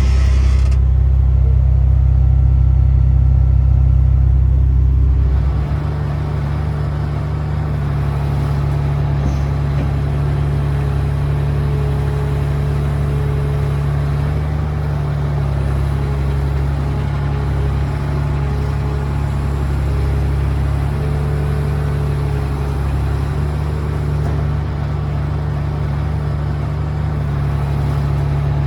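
Diesel engine of a CAT 345DL excavator, a CAT C13 inline-six, running steadily with a deep hum. About five seconds in the lowest part of the sound drops away and it settles into a slightly quieter steady run.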